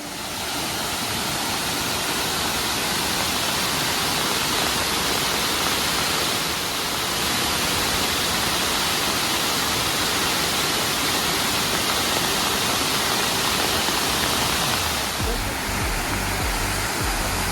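Waterfall rushing steadily: a loud, dense, even hiss of falling water. Near the end a low rumble joins in.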